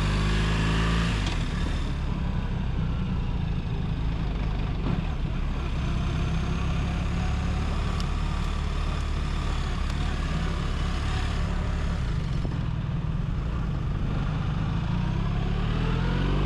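BMW motorcycle engine running as the bike rides slowly, its note dropping about a second in and rising again near the end as it pulls away.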